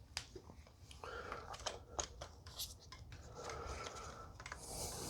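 Faint scattered clicks and light scraping, like tools and metal parts being handled.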